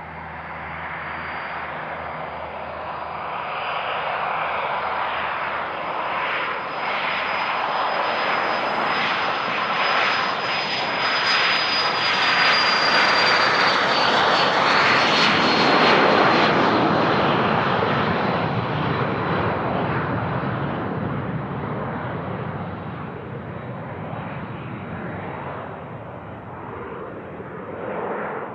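Business jet passing close by. Its engine noise builds to a peak about halfway through and then fades, with a thin high whine that drops slightly in pitch as the aircraft goes past.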